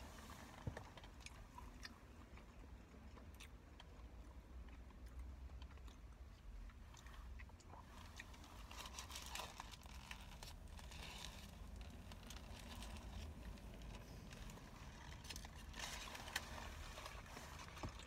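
Faint close-up chewing and biting of a roast beef sandwich, with brief rustles of its foil wrapper about halfway through and near the end.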